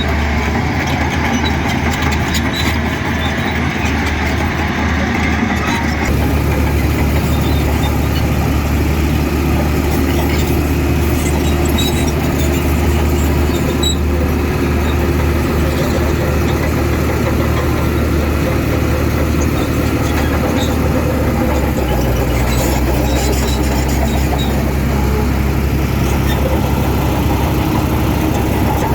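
Heavy diesel engine of earthmoving machinery running steadily, with a deep, even engine note. Its tone changes abruptly about six seconds in and again past the twenty-second mark.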